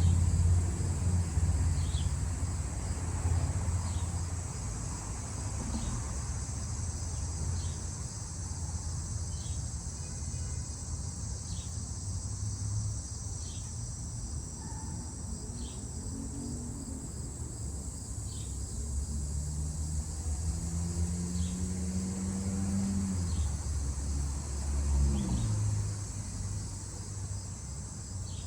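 Crickets and other insects trilling steadily, with a short high chirp repeating about every second and a half. Passing road traffic rumbles underneath: a vehicle fading away at the start, and another passing later with its engine pitch rising and then falling.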